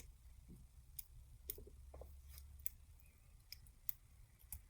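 Faint, scattered small clicks and taps, about half a dozen, from small parts and tools handled against the phone's frame as the proximity sensor module is set back in place.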